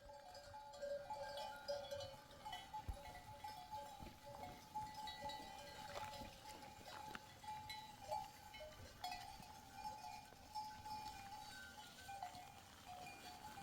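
Livestock bells on a flock of sheep and goats, clinking and ringing faintly and continuously as the animals move.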